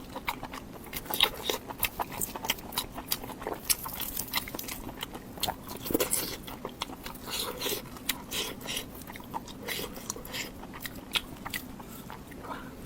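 Close-miked chewing and biting of crunchy food: a dense, irregular run of sharp crunches and mouth clicks.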